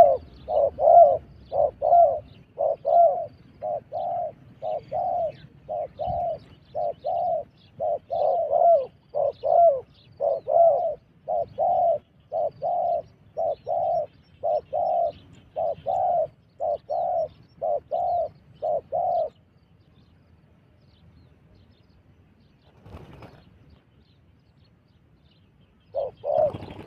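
A dove cooing in a long run of short, evenly repeated notes, about one and a half a second. It stops about two-thirds of the way through and starts again just before the end.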